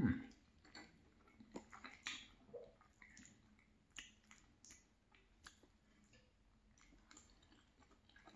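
Close-miked chewing of soft, creamy tomato-sauce cavatappi pasta: faint, scattered wet mouth clicks and smacks. A brief, louder low mouth sound comes right at the start.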